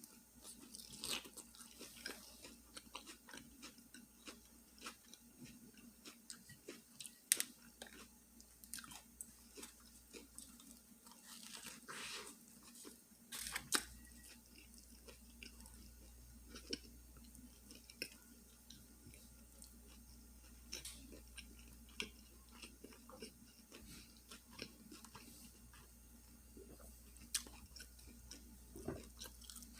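Close-up eating sounds of a fish fillet sandwich with lettuce and onion being bitten and chewed: irregular wet crunches and smacks.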